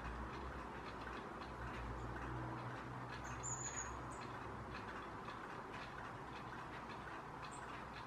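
Thin, very high call of a long-tailed tit, once briefly about three and a half seconds in and faintly again near the end. Underneath is a steady low hum and a scatter of faint ticks.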